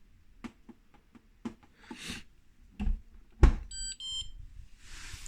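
Dishwasher control panel: a few button clicks and a loud knock, then two short electronic beeps a moment apart.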